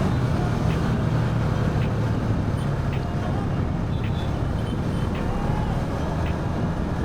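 Motorcycle engine running at a steady cruise, with wind and road noise, heard from a microphone inside the rider's helmet.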